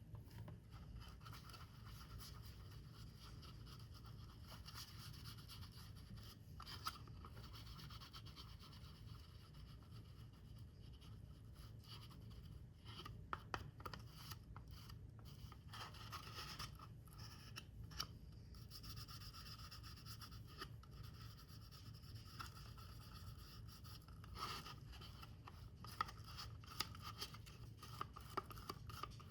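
Paper or thin card being worked by hand: faint scratching and rubbing with a few small sharp ticks, over a steady low hum.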